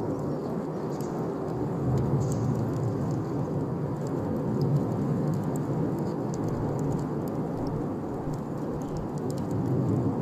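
Wood bonfire burning: a steady low rush of flames with scattered small crackles and pops.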